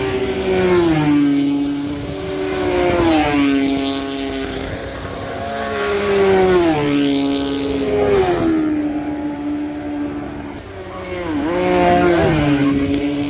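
Superbike racing motorcycles passing one after another at full speed, their engines' pitch dropping as each goes by, about five passes in all.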